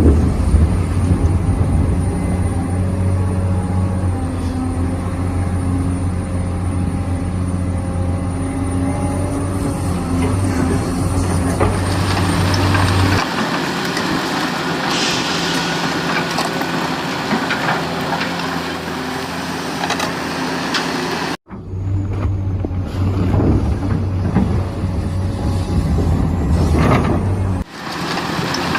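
Remote-control hydraulic excavator working: a steady mechanical hum and whine from its pump and motors that shifts in tone about halfway through, breaks off for an instant, then carries on.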